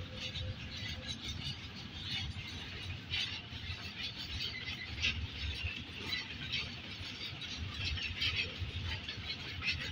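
Freight train of container wagons moving through a rail yard: a steady low rumble with irregular high squeals of steel wheels on the rails.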